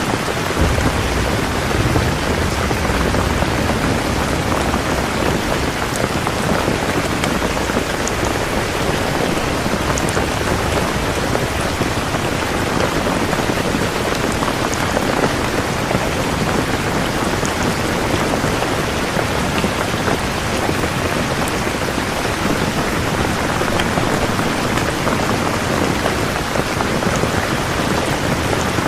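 Steady heavy rain falling, an even hiss with scattered drop ticks, and a low rumble in the first few seconds.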